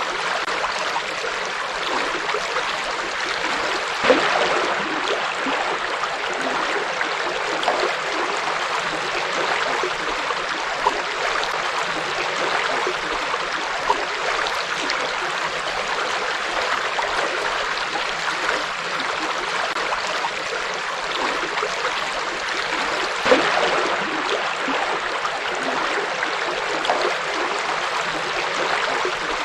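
A forest river flowing steadily, an even rush of water with small gurgles, and twice a brief louder splash.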